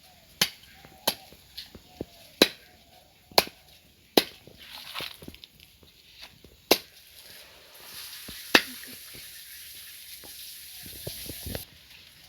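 Chopping with a blade on a cutting surface: about eight sharp, irregularly spaced strikes. A steady hiss starts about two-thirds through and cuts off suddenly near the end.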